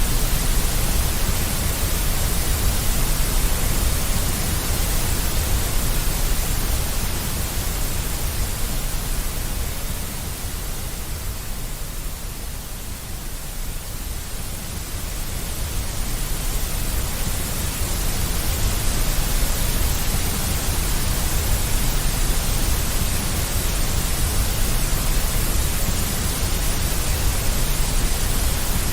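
Deep white noise: a steady hiss with a strong low rumble underneath, easing a little quieter about halfway through and then swelling back up.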